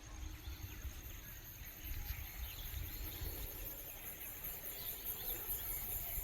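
Insects trilling steadily, with scattered faint bird chirps and a low rumble underneath.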